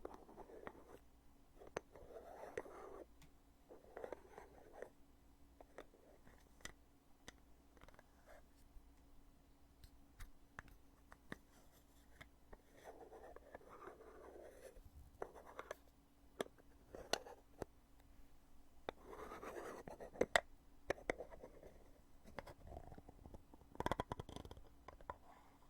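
Close-miked lid of a foundation container being opened and closed over and over: irregular sharp clicks and snaps of the lid with short soft rubbing and scraping sounds between them, the loudest snaps near the end.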